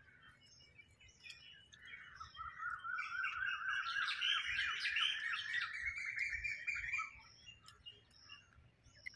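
Small birds chirping, rising to a burst of fast chattering from about two seconds in that stops about seven seconds in, with scattered high chirps throughout.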